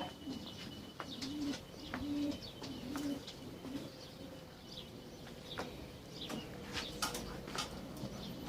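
Racing pigeons cooing softly, a low coo about once a second, with faint chirps of small birds.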